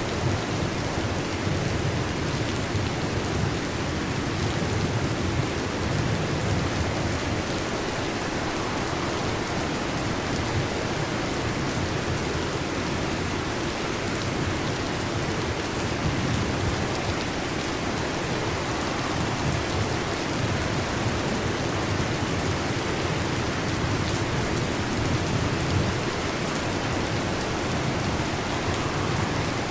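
Heavy rain drumming steadily on a metal roof, with a low rumble of thunder rolling underneath.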